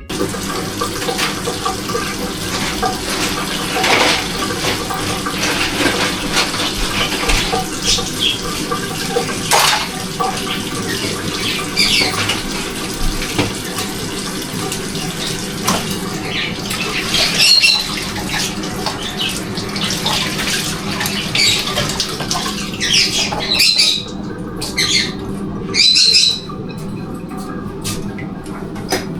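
Tap water running steadily into a sink, with occasional knocks. A bird calls several times, short high squawks, mostly in the second half.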